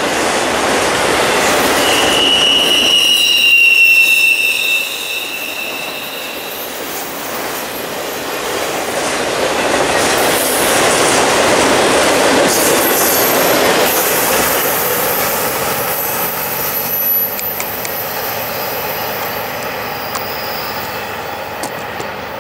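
Autorack freight cars rolling past on a curved track: a steady rumble and rattle of steel wheels on rail. A high wheel squeal from the curve stands out for a few seconds near the start, with fainter thin squeals later.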